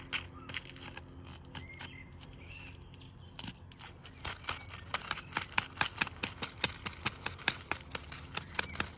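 Washing machine running, a low hum under a regular sharp knocking that quickens to about three or four knocks a second.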